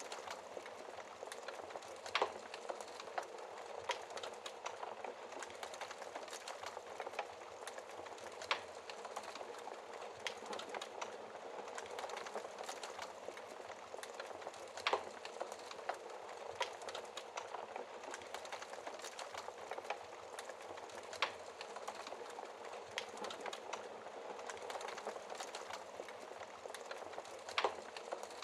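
Fire crackling in a fireplace: a dense, steady hiss of small crackles, with a sharper, louder pop about every six seconds.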